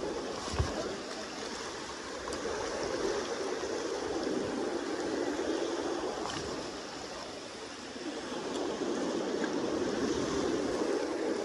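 Steady rush of the fast-flowing Kenai River. About half a second in there is a single low thump.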